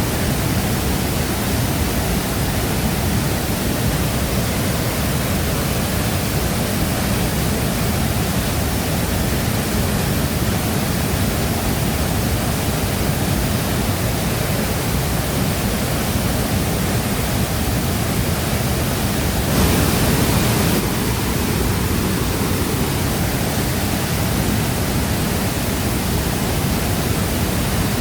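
Shifen Waterfall pouring, a steady dense rush of falling water with most of its weight in the low end. About two-thirds of the way in it swells louder for about a second, then settles back.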